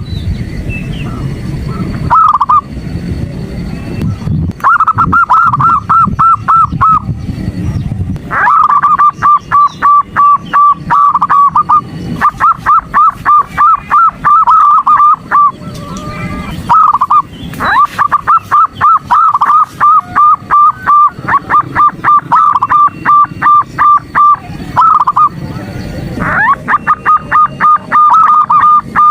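Female zebra dove (perkutut) calling in long trains of rapid staccato notes, about five a second, broken by short pauses. This is a lure call meant to provoke male perkutut into calling. A low rumble lies under the calls for the first third.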